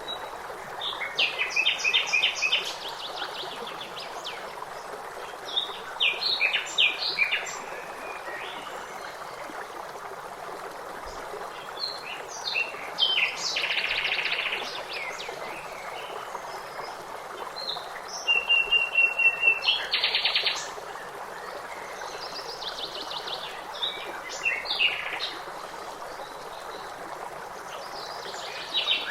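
Several songbirds chirping and singing in short bursts of rapid trills every few seconds, over a steady rush of flowing stream water.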